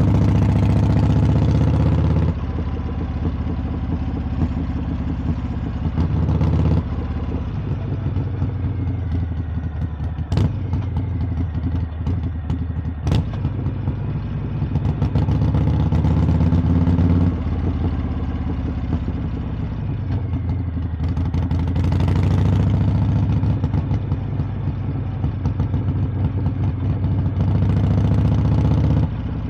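Harley-Davidson V-twin motorcycle exhaust under way. The throttle is opened and rolled off in turns: louder pulls about two seconds long come at the start, around six seconds in, midway, and twice near the end, between quieter cruising. Two sharp clicks sound about three seconds apart near the middle.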